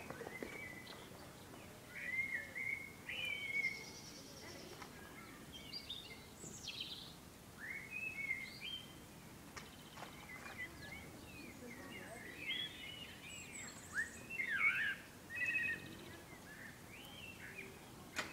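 Songbirds singing and calling, short chirps and whistled phrases coming on and off, over faint outdoor background noise.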